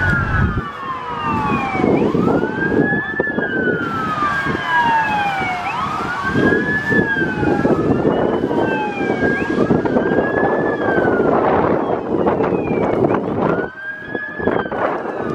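Federal Q mechanical sirens on fire trucks winding up and coasting down again and again, more than one overlapping, over the heavy rumble of the passing apparatus.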